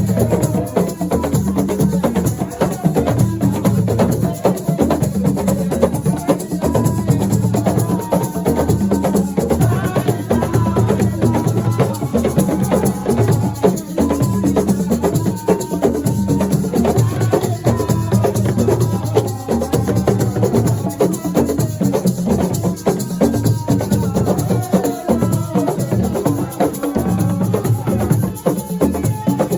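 Assiko music played live: dense hand percussion of drums, shakers and wooden knocks in a steady driving beat, with a melodic line running over it.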